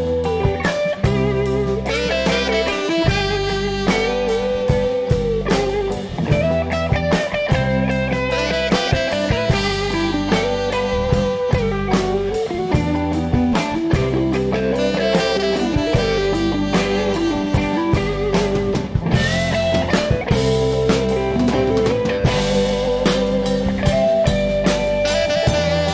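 Live band playing an instrumental passage of a song: a lead line with bending, gliding notes over a steady bass part and regular drum kit hits.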